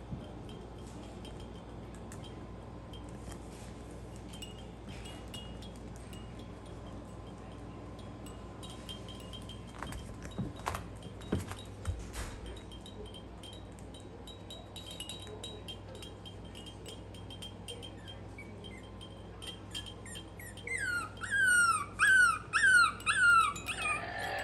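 Maltese puppies whimpering in faint high squeaks, with a few soft knocks. Near the end comes a loud run of high-pitched falling cries, about two a second.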